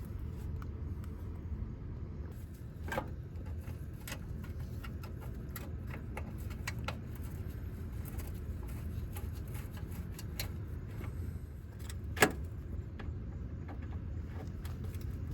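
Scattered small metal clicks and taps of hand work on the engine tin and fittings, with two sharper knocks, one about three seconds in and one about twelve seconds in, over a steady low hum.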